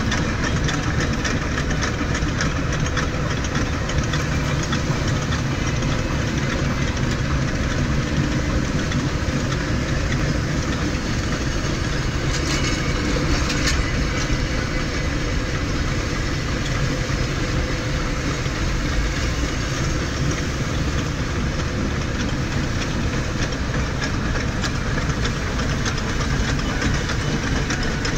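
Steady rumble heard from inside a car cabin pacing a moving train: road and tyre noise mixed with the running Norfolk Southern diesel locomotives and the rolling train.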